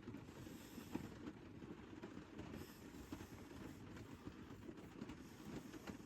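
Light rain falling on a truck camper's roof, heard from inside: a faint, steady tapping of many small drops.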